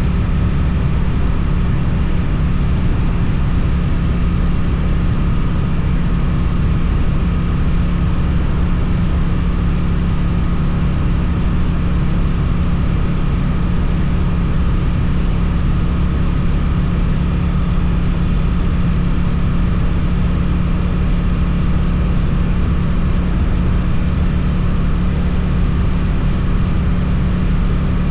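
Suzuki twin-cylinder motorcycle engine through an Akrapovič exhaust, running at a steady speed while riding, its pitch holding constant with no revving.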